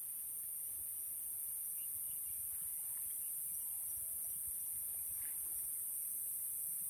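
Steady high-pitched chorus of night insects, with a few faint distant animal calls now and then.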